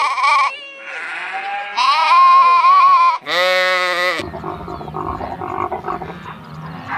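Animal bleating: four drawn-out, wavering calls in the first four seconds. A lower, rough, pulsing animal sound follows from about four seconds in.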